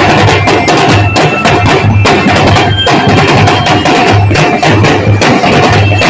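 Marching drum and bugle corps playing a fast percussion groove: dense snare and wood-block-like strokes over repeated bass drum hits, with a few held melodic tones.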